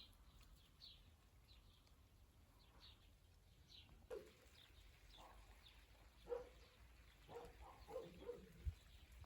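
Faint, quiet outdoor sound: a small bird chirping in short high notes repeated every second or so, then from about four seconds in a run of short, lower animal calls, several in quick succession near the end.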